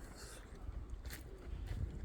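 A few footsteps over a low rumble of wind on the microphone.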